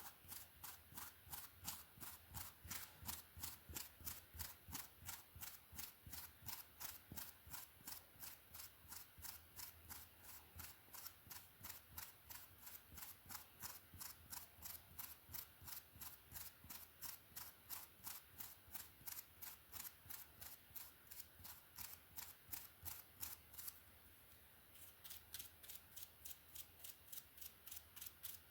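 A hairbrush stroking through hair in quick, even, faint strokes, about three a second, with a short pause about 24 seconds in.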